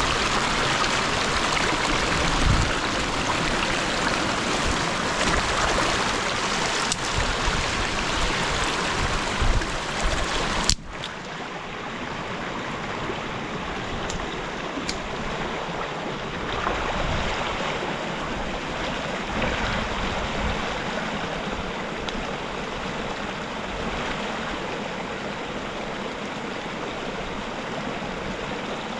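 River water flowing, a steady rushing noise. About eleven seconds in it cuts abruptly to a quieter, duller stretch of the same water sound.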